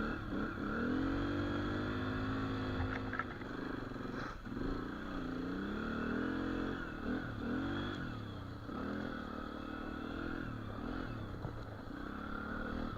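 Dirt bike engine running while being ridden, the throttle opening and easing off several times so the engine note rises and falls.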